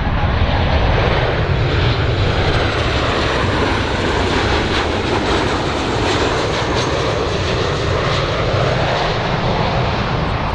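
Engines of a large airplane running loud and steady, with a faint high whine above the noise.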